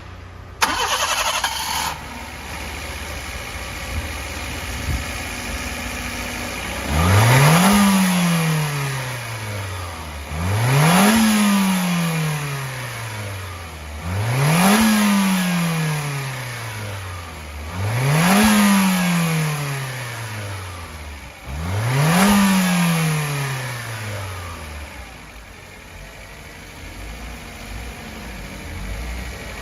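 Daihatsu Move Custom's JB-DET 660 cc turbocharged three-cylinder engine starting, idling, then revved five times in quick blips, each climbing fast and dropping slowly back to idle, before settling to idle again.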